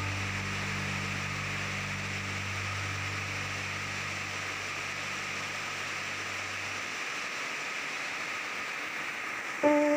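Steady rain hiss with a low droning tone that fades out about seven seconds in, and a plucked music melody starting near the end.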